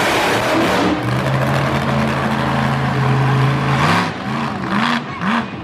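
Monster truck engine running at high revs. Near the end it gives a series of quick throttle blips that rise and fall in pitch.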